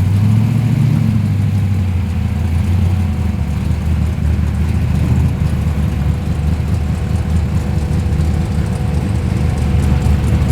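Car engine rumbling at low speed, with a deep steady exhaust note and a slight rise in revs near the start.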